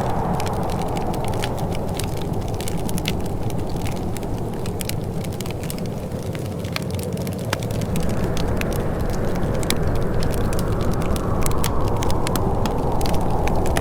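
Wood fire crackling, with many sharp, irregular pops over a steady low rushing sound.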